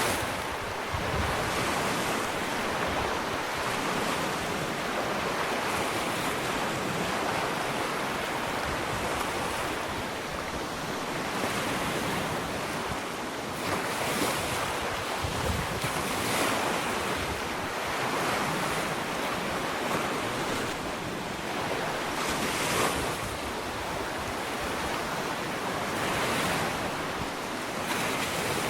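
Ocean surf on a sandy beach: a continuous wash of waves breaking and running up the shore, swelling and easing every few seconds.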